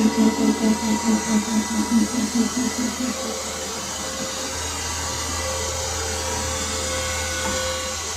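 Workshop machine, most likely the lathe, running: a rhythmic pulsing about four times a second that gives way after about three seconds to a steady hum.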